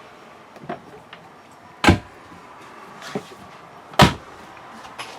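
Storage cabinet doors being opened and shut: a few light clicks and two sharp knocks about two seconds apart.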